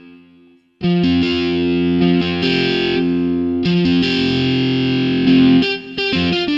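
Casio keyboard playing a distorted electric guitar tone: after a brief pause, held chords that change every second or so, with a few quicker, choppier notes near the end.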